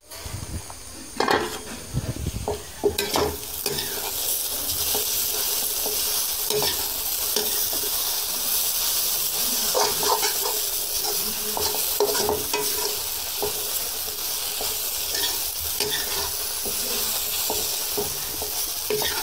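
Grated carrot frying in ghee in a metal pan, sizzling steadily while a metal spoon stirs and scrapes through it. There are a few sharp knocks in the first few seconds. The frying is drying off the carrot's own moisture.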